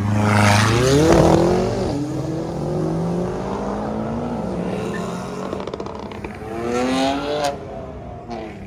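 Car engine revving hard: the pitch climbs steeply about a second in, settles and runs on unevenly, then climbs again in a second rev around seven seconds in.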